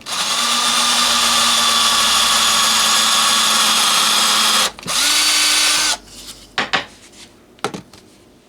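Electric drill running as it bores a small hole through a wooden dowel: one steady run of about four and a half seconds, a brief stop, then about another second at a slightly higher pitch. A few light clicks and knocks follow.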